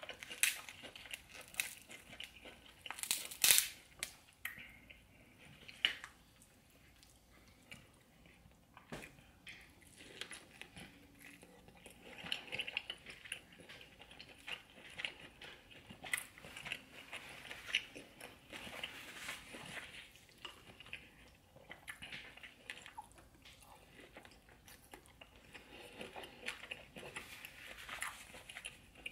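Close-miked chewing and biting of seafood boil, with irregular wet smacks and crunches; the loudest crunching bites come about three and a half seconds in and again near six seconds.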